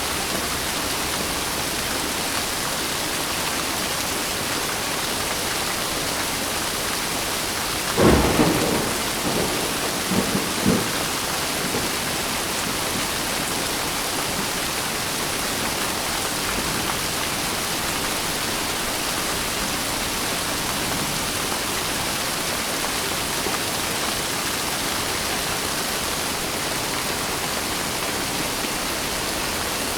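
Steady rain, with a sudden clap of thunder about eight seconds in that rumbles on in a few smaller peals for about three seconds.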